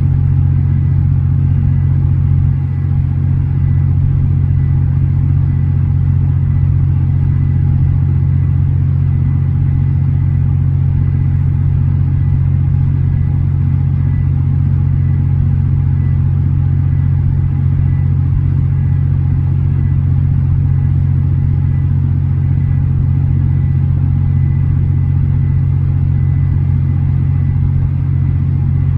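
An engine running at a steady speed: a constant low drone with a faint steady whine above it.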